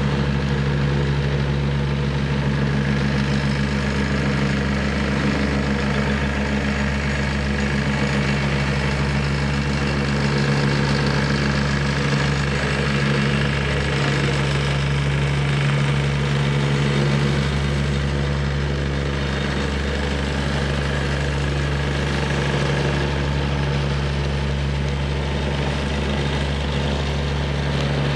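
Wacker Neuson 75Z3 midi excavator's diesel engine running steadily, with an even hiss of heavy rain over it.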